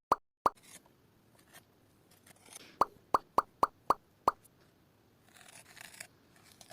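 Short, identical pop sounds, the kind of plop effect edited into a video: two near the start, then a quick run of six at about three to four a second. A faint rustle follows about five seconds in.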